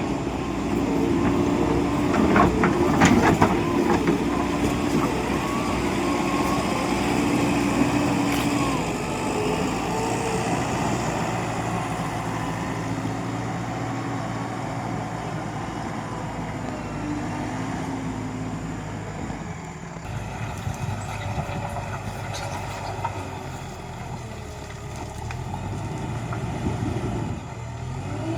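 JCB 3DX backhoe loader's diesel engine running steadily while working, with a cluster of sharp knocks about three seconds in.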